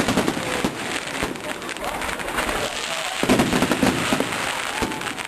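Fireworks going off in a display: a dense run of rapid crackles and pops, with a crowd's voices underneath.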